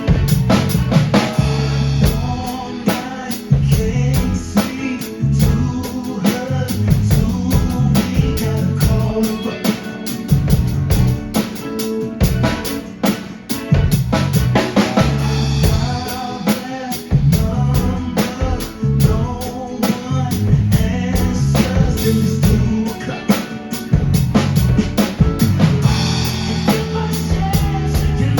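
Drum kit played along to a recorded song with a bass line and singing: a steady groove of bass drum, snare and rimshot strokes.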